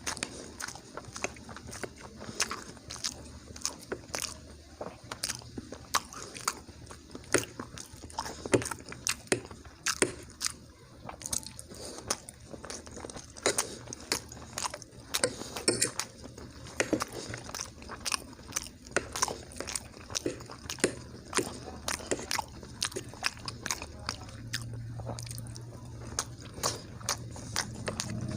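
A person chewing and eating food close to the microphone, with wet mouth clicks and smacks coming several times a second.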